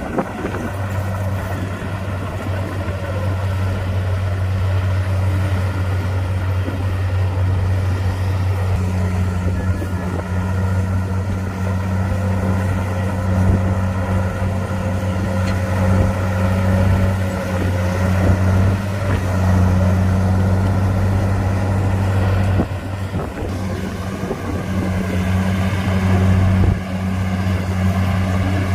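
Bulldozer's heavy diesel engine running steadily under load, a deep continuous drone, with a short dip in level about three-quarters of the way through.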